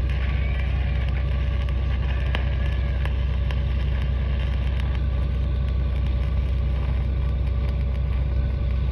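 Stick welding a root pass with a 7018 electrode: the arc crackles in scattered small pops over a steady, loud low engine drone.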